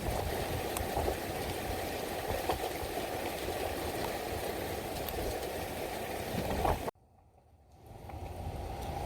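Steady rain falling, a dense hiss with a low rumble and a few faint drop clicks. It cuts out abruptly about seven seconds in and fades back in a second later.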